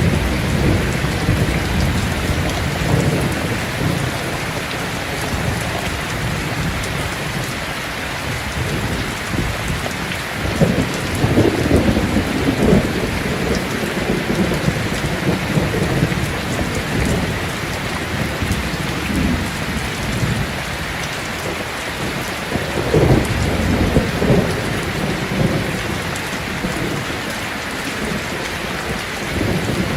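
Steady rain falling, with rolls of thunder rumbling up twice: about a third of the way in and again about three quarters of the way through.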